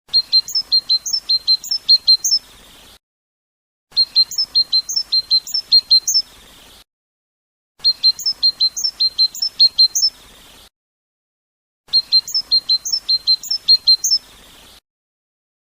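European goldfinch song phrase, the 'btebta' type that fanciers use to teach captive goldfinches. It is a quick run of about a dozen sharp, high notes, alternating a steady note with a short upward-flicking one. The same phrase plays four times, with silent gaps between.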